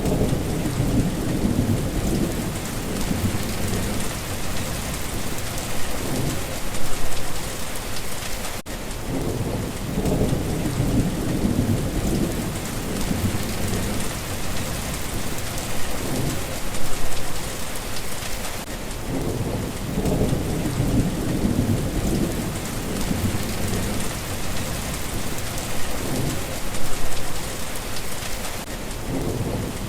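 Steady heavy rain with low, rolling rumbles of thunder swelling and fading about every ten seconds.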